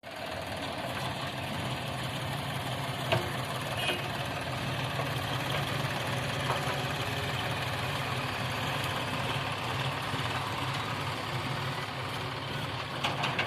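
Heavy diesel engine running steadily at idle, with a sharp knock about three seconds in and a few more near the end.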